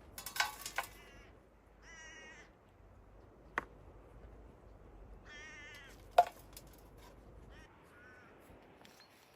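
An animal, most likely a bird, calling several times: short calls with a wavering pitch, a few seconds apart, with two sharp clicks in between.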